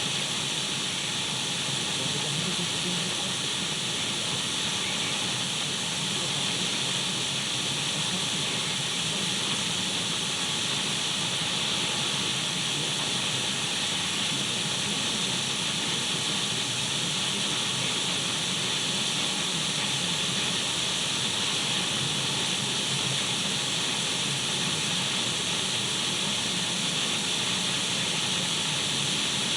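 Radio static: the steady, even hiss of an untuned radio, unchanging throughout and brightest in the upper-middle range.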